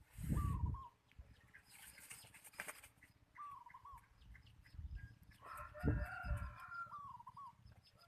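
Red junglefowl decoy rooster calling: three short wavering crow-like calls a few seconds apart, with a couple of low thumps.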